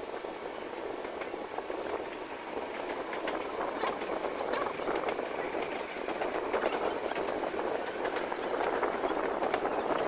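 Train running on the rails: a steady rumble with frequent irregular clicks and clatter from the wheels, growing gradually louder.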